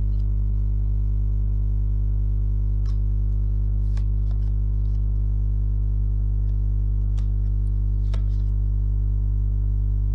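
Steady low hum made of evenly spaced tones that never change, with a few faint clicks scattered through it.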